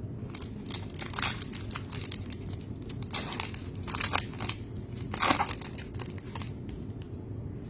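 Trading cards and their plastic pack wrappers being handled: a string of short crinkling and rustling sounds, the loudest about a second in, around four seconds in and a little after five seconds, over a steady low room hum.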